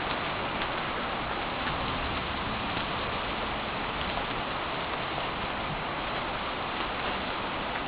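Heavy thunderstorm rain falling steadily, an even hiss of rain.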